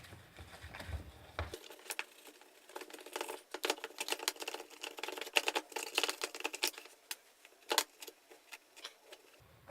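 Soft brush scrubbing paint-stripper-softened paint off the grinder's plastic housing: irregular short scratchy strokes and clicks, busiest in the middle, with one sharper click near the end.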